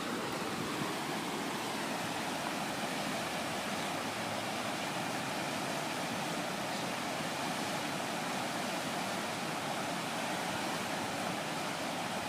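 Steady rushing noise of fast-flowing river water.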